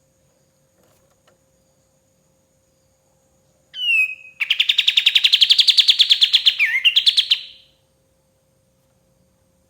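Kapas tembak song: a short downward-sliding note about four seconds in, then a loud, rapid trill of about ten notes a second lasting some three seconds. A faint steady hum lies underneath.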